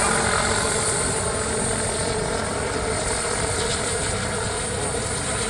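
Turbine-powered RC scale model of an Aérospatiale SA-319 Alouette III helicopter running steadily, a high turbine whine over the rotor noise.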